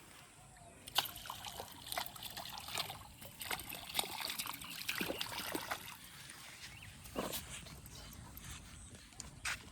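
Muddy water sloshing and splashing, with irregular sharp splats starting about a second in.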